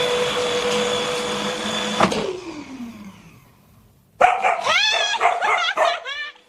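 A household appliance's electric motor runs steadily with a whine, then is switched off about two seconds in and winds down with a falling pitch. After a short quiet gap, a dog gives a rapid series of high yips and whines that rise and fall.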